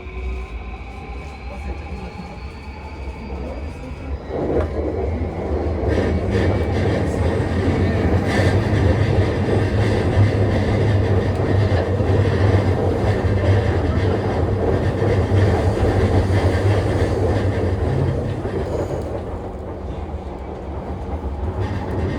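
Interior running sound of a JR East E235-0 series Yamanote Line electric train, heard in a motor car: the traction inverter and motors give a whine rising in pitch as the train accelerates, then about four seconds in a loud rumble of wheels rolling on the rails takes over, easing off a little near the end.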